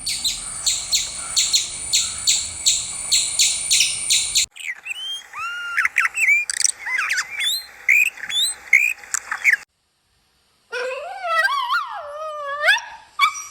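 A run of animal calls in quick succession: for the first four and a half seconds, high calls repeated evenly about three times a second; then a jumble of short chirps and whistles sweeping up and down; then, after a brief silence, a pitched call that wavers up and down for a couple of seconds.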